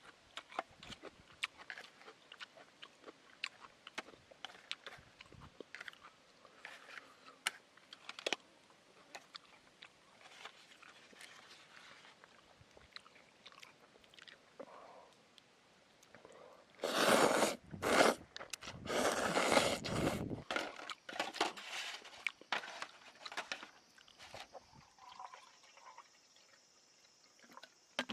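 Scattered small crunching and clicking sounds, with a louder rustling crunch lasting about three seconds past the middle.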